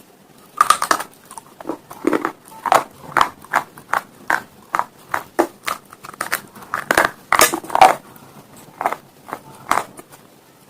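Brittle slate stone pieces being bitten and chewed up close: a steady run of sharp, crackly crunches, about two a second, with the loudest bites about a second in and again near the eight-second mark.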